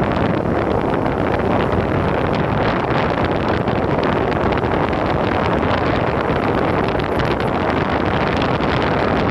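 Loud, steady wind buffeting on a phone's microphone while riding an electric skateboard at speed, with no other distinct sound standing out.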